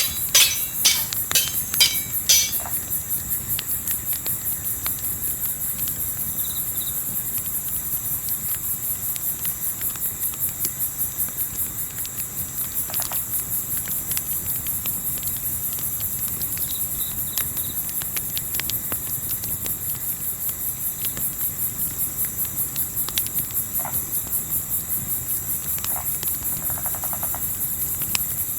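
Crickets chirping continuously in a fast, high, even pulse. In the first two seconds or so, several ringing metallic strikes, like a hammer on metal, sound and then stop. A few faint cracks of a campfire come later.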